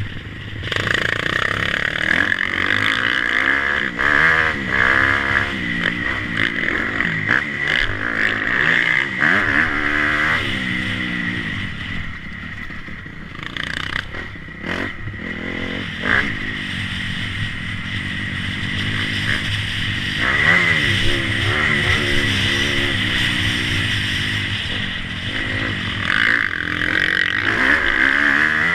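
Motocross bike engines revving up and down, their pitch rising and falling again and again, easing off for a few seconds near the middle.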